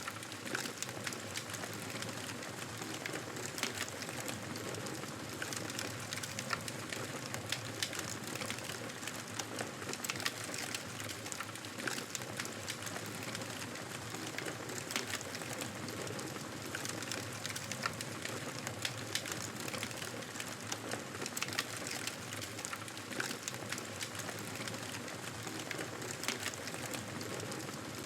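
Wood fire in a fireplace crackling: a steady soft rush of flame with frequent sharp, irregular pops and snaps.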